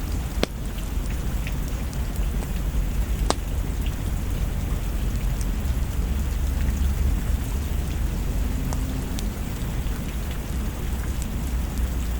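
Steady rain over a low rumble, with a few sharp crackles now and then from a log fire.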